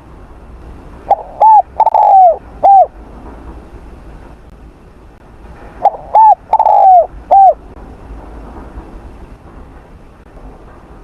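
Spotted dove cooing: two phrases of four notes each, about five seconds apart, the third note of each the longest.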